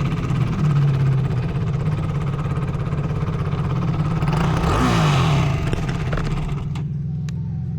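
A 450cc sport quad's single-cylinder four-stroke engine running steadily under way, with a brief swoop in pitch a little before the middle. Near the end it settles to a lower, quieter running.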